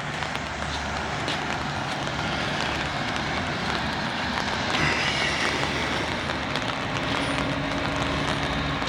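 Steady rain noise with a vehicle engine running steadily, its low hum growing more prominent over the second half.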